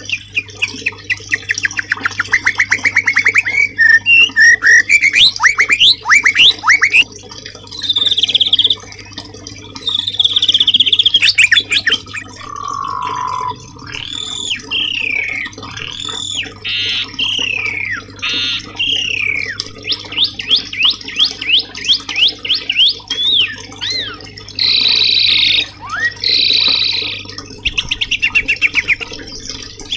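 Songbird masteran recording: a varied run of bird song phrases following one another without pause, with fast trills, looping whistles that rise and fall, and rapid strings of chirps.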